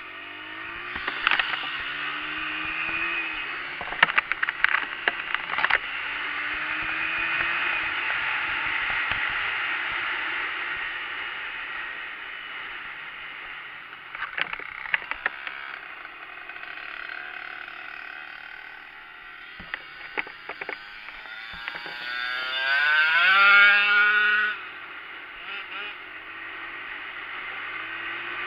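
Small Honda dirt bike engines running and revving, rising and falling in pitch, with a loud rev-up a little past two-thirds of the way through. Scattered clattering knocks come early and again in the middle.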